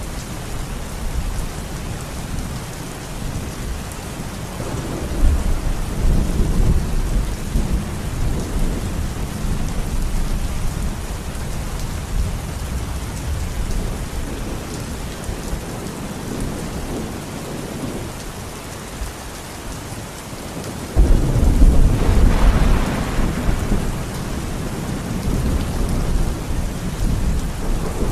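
Steady rain falling, with rolls of thunder: a rumble swelling about five seconds in, and a sudden louder clap about three quarters of the way through that rumbles away over several seconds.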